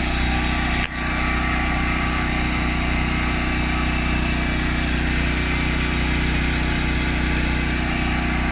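Steady motor hum with a constant hiss above it, from the LG refrigerator's compressor running while refrigerant is charged into the system. The sound dips briefly about a second in.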